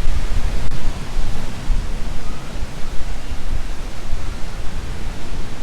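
Wind buffeting the phone's microphone in uneven gusts, a low rumbling over a steady rushing hiss, with the microphone's small wind baffle not keeping it out.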